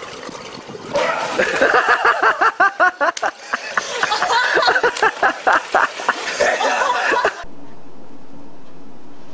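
A person laughing hard in quick repeated bursts, which cut off suddenly near the end. A steady hiss follows.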